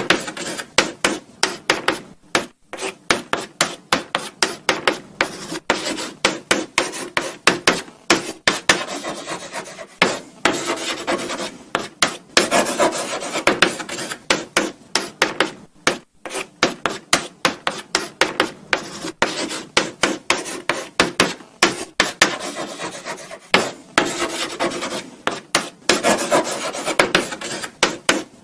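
Chalk writing on a blackboard: quick, irregular scratchy strokes with small taps as the chalk meets the board, pausing briefly between words.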